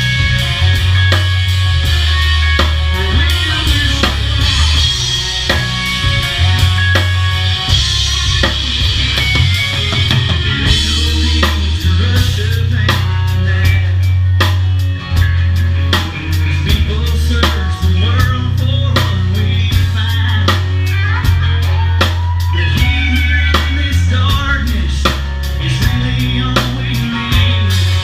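Live band playing loudly, a drum kit prominent with bass drum and snare hits over a sustained, shifting bass line.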